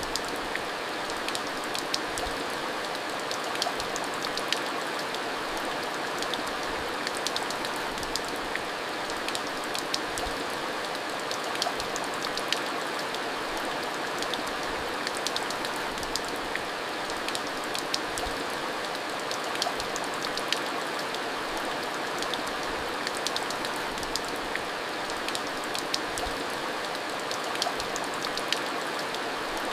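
Steady monsoon rain: a continuous even hiss with many sharp ticks of drops striking a surface scattered all through it.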